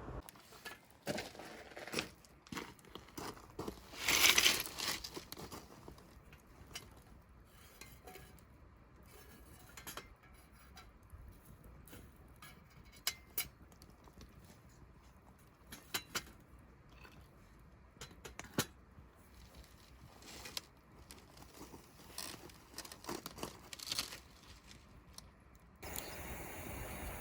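Close handling of cooking gear and food packaging: scattered light clicks and knocks, with a louder rustling, tearing sound about four seconds in.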